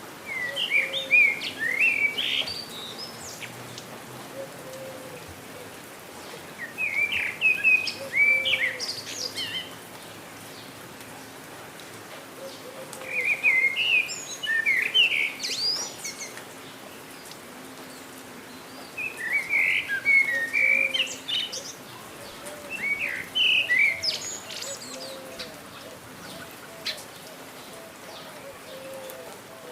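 A songbird singing in bursts of quick, warbling chirps, five phrases each two to three seconds long with pauses of a few seconds between them. Under the song runs the steady hiss of rain.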